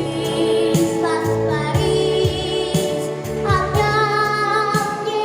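Music: a female voice singing long held notes over instrumental accompaniment, near the close of a Russian song.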